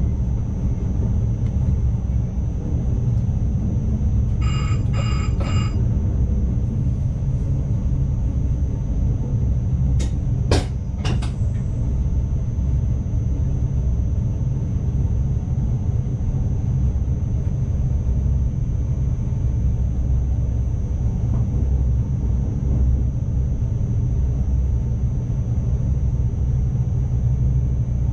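Steady running rumble inside the driver's cab of an NS ICMm (Koploper) electric multiple unit, with a thin high whine over it. Three short beeps sound about four to five seconds in, and a few sharp clicks come about ten seconds in.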